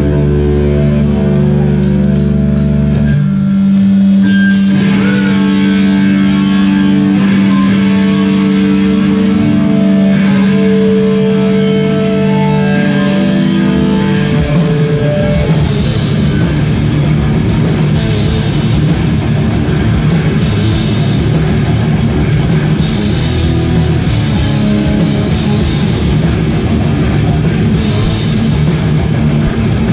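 Hardcore band playing live: held guitar notes ring out for about the first half, then drums and the full band come in about halfway through.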